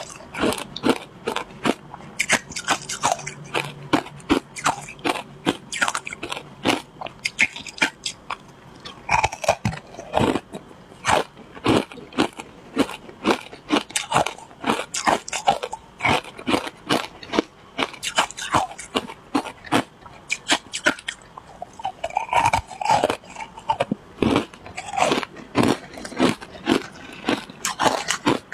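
Close-up biting and crunching of shaved ice frozen with matcha and milk powder: many sharp, irregular crunches, several a second, as the ice is chewed.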